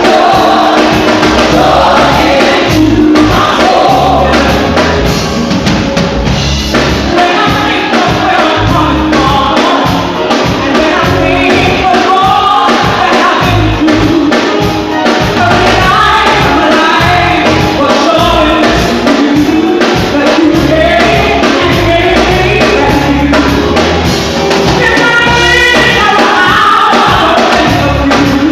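Live gospel worship music: singers over a full band, loud and continuous.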